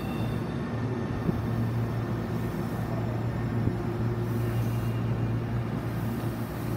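Tobu 30000 series electric train finishing its stop at the platform, then standing with a steady low hum from its on-board equipment.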